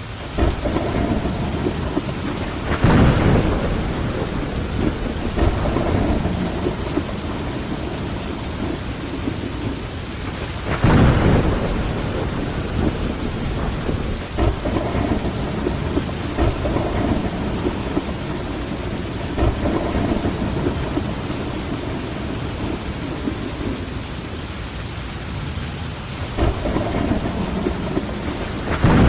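Steady rain against a window with thunder rumbling: low swells about three seconds in, again around eleven seconds, and a third building near the end.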